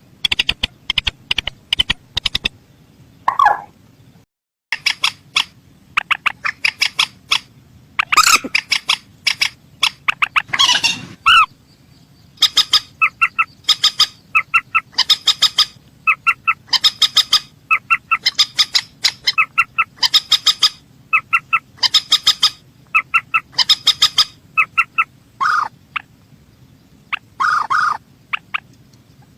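Calls of a rail, the 'mandar sawah': fast runs of short clicking notes in repeated bursts, with a few longer harsh calls mixed in. The calls break off briefly about four seconds in.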